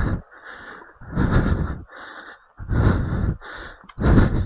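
A person breathing hard and rhythmically from exertion: three loud, heavy exhales about a second and a half apart, with quieter inhales between them.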